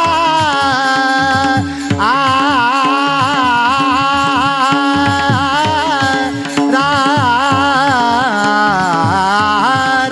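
Devotional kirtan music: a singer holds long, ornamented notes of the melody over a steady drone, with regular hand-drum strokes underneath.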